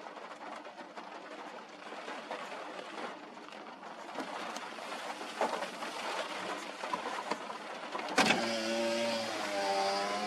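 Wind and rain noise buffeting the microphone. About eight seconds in there is a sudden loud knock, followed by a low pitched sound that wavers in pitch for about two seconds.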